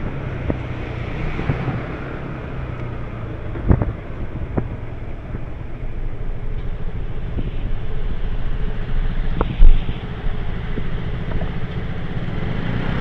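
Delivery rider's motor scooter running along the road, with wind noise on the microphone and a few light knocks; a short loud thump about ten seconds in.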